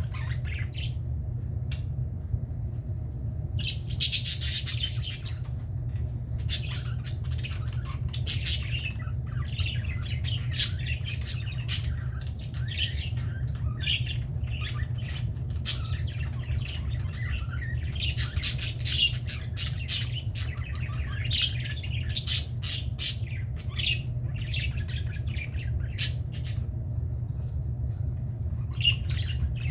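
Budgerigars chattering, with many short chirps and squawks coming thick and fast after a brief lull near the start, over a steady low hum.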